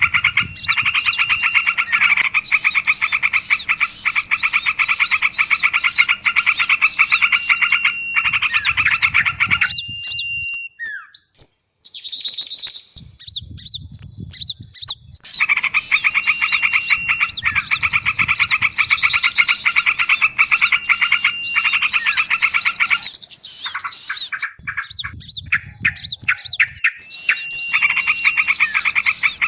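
A bird-lure recording: many small songbirds' calls layered together in a dense, rapid chatter of chirps and trills. The chatter breaks off twice, about ten seconds in and again after about twenty-three seconds, leaving a few higher calls on their own before it resumes.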